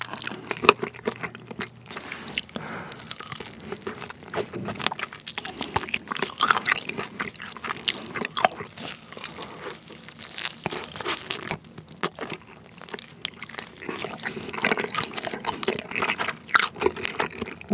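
Close-miked eating of a red-sauced fried chicken wing: repeated crisp crunching bites and chewing.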